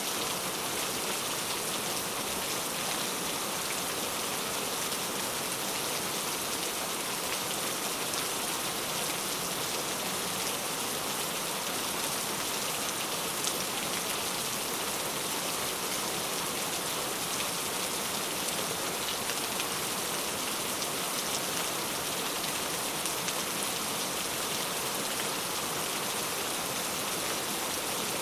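Heavy rain falling steadily, an even hiss of drops striking surfaces with occasional louder individual drop ticks.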